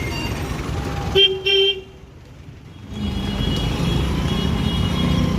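Roadside traffic noise with a vehicle horn tooting twice in quick succession about a second in. The sound then drops away for about a second before the traffic noise returns.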